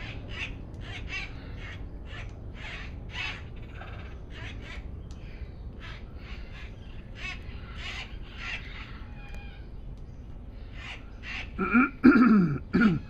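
A flock of wild parrots calling continually as they feed: many short, harsh squawks, overlapping. Near the end a person clears his throat, louder than the birds.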